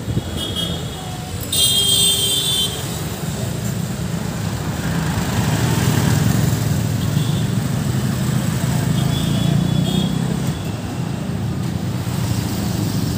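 Busy city street traffic: vehicle engines running steadily, with a horn blast about two seconds in and a few fainter short horn toots later.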